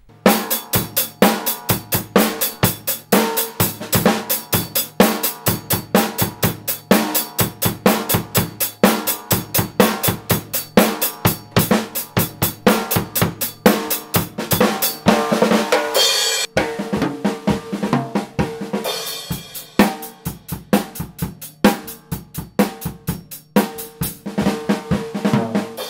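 A drum kit played in a fast, steady rhythm, with snare, bass drum and cymbal strikes.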